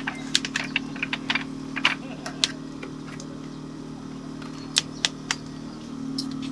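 Quick, light clicks and clinks, a dense run in the first couple of seconds and a few more about five seconds in, over a steady low hum.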